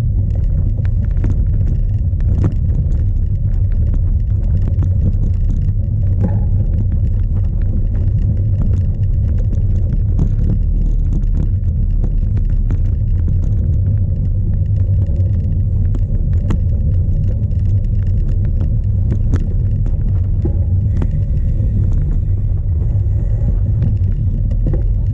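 Strong wind buffeting a bike-mounted camera's microphone: a loud, steady low rumble. Frequent short clicks and rattles come through it as the cyclocross bike rides over rough ground.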